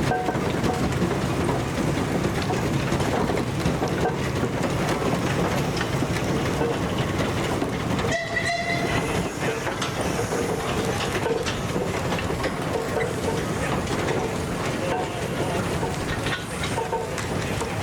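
Steam engines passing by in procession: a loud, continuous mechanical clatter and rumble. A brief high tone sounds about eight seconds in.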